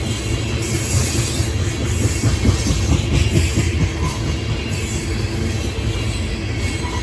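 Train rolling past at close range: a steady, loud rumble of railcar wheels on the track.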